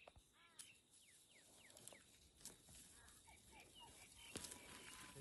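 Faint birds chirping: many short, falling chirps repeated, with a couple of soft clicks.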